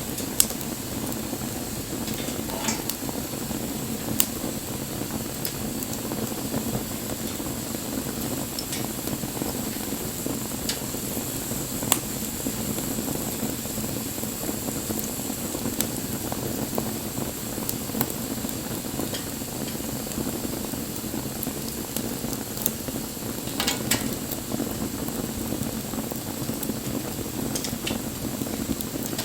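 Wood campfire burning with a steady rushing hiss, broken by scattered sharp crackles and pops from the burning wood, including a short burst of crackling near the end.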